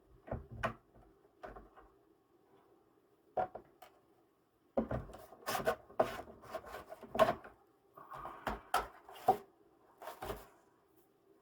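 Laptop parts being handled during disassembly: irregular clicks, knocks and short scraping sounds of plastic parts and tools, busiest from about five seconds in, over a faint steady hum.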